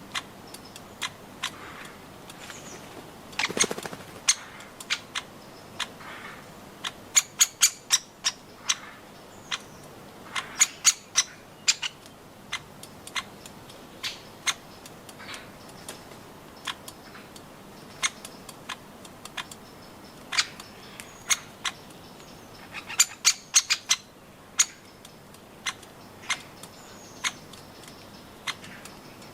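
Birds pecking at a nut feeder: irregular sharp beak taps, sometimes in quick runs of several, with a short rustle about three seconds in and faint high chirps now and then.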